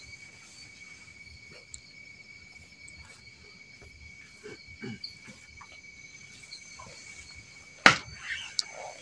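Steady high-pitched insect trilling, crickets or the like, running unbroken, with one sharp knock about eight seconds in.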